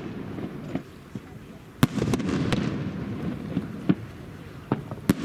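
Fireworks going off. A sharp bang about two seconds in is followed by a rumbling, crackling stretch, and single bangs come again near four seconds and near the end.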